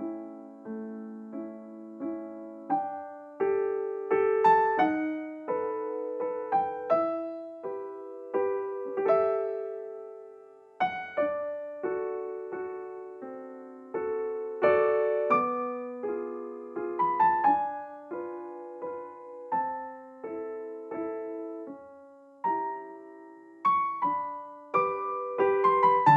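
Background piano music: a slow melody of struck notes and chords, each ringing and fading before the next.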